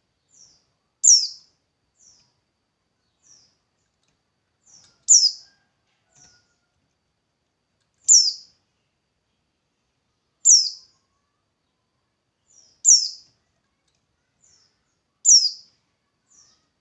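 A songbird repeating a single short, high note that falls steeply in pitch, six times at intervals of a few seconds, with fainter short chirps between.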